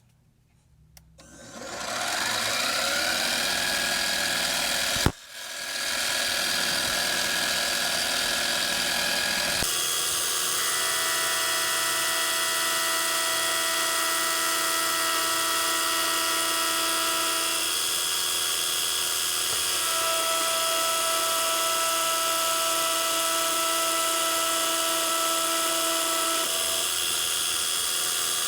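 Metal lathe motor spinning up with a rising whine about a second in, then running steadily. Near five seconds a sharp click and brief drop, and it spins back up. About ten seconds in its tone changes to a steady whine of several pitches.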